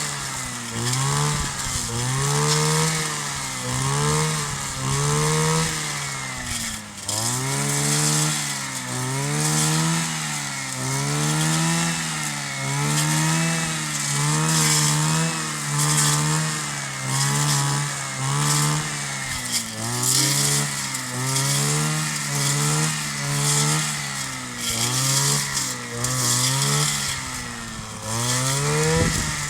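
Kioritz 260 brush cutter's small two-stroke engine running at high revs, its pitch rising and falling about once a second as the throttle and cutting load change.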